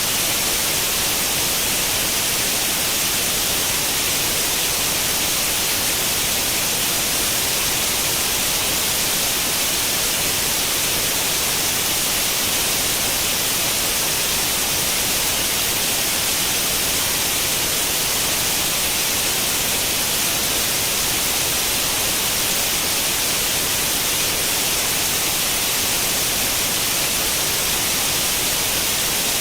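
Steady white noise like the static hiss of an old tube television tuned to no channel, even and unchanging, with most of its weight in the upper register.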